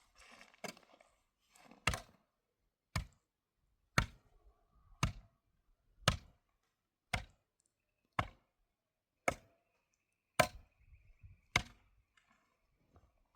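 Sharp chopping strikes, evenly spaced at about one a second, eleven in all.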